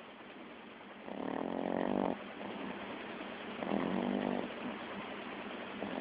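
A sleeping dog snoring: one snore about a second in, another about two and a half seconds later, and a third starting near the end. Each snore lasts about a second.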